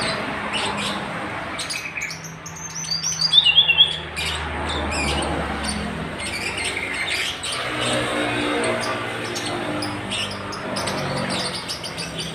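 A tledekan gunung songbird chirping and singing in short high phrases, loudest in a quick falling run of notes about three seconds in. A steady low hum runs beneath it.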